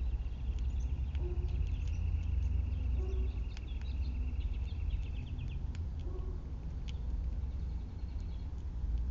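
A small bird's high, dry trill, held for about six seconds before it stops, over a steady low rumble of outdoor background noise, with a few scattered light clicks.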